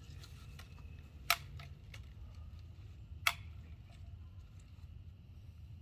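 Two sharp clicks of a BB gun, about two seconds apart, with a few fainter ticks over a low steady hum.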